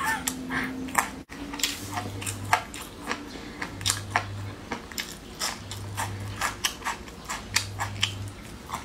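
Close-miked chewing and mouth sounds of someone eating chewy, spicy marinated meat and cartilage: many short wet smacks and clicks throughout, with a faint low hum pulsing on and off about every two seconds.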